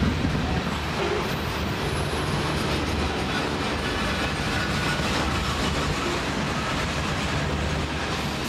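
Freight train of refrigerated boxcars rolling past, a steady noise of steel wheels running on the rails.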